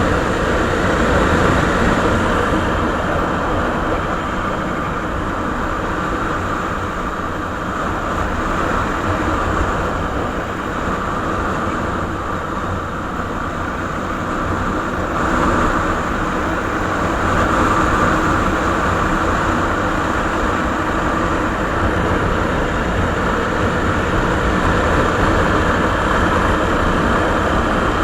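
Suzuki Savage (Boulevard S40) 650 cc single-cylinder four-stroke engine running through its stock exhaust, a steady, dense rumble that swells and eases slightly in level.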